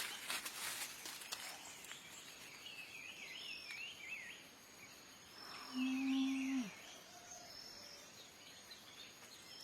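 Small birds chirping in short twittering phrases, over faint high thin insect-like tones. About six seconds in, a low hum lasts about a second and dips in pitch at its end; it sounds like a person's voice.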